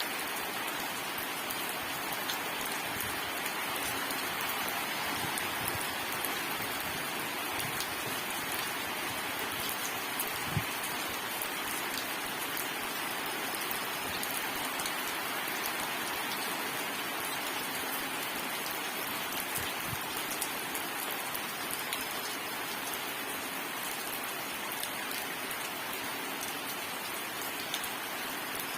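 Steady rain falling on a surface, an even hiss with scattered sharp drop ticks and a few soft low thuds.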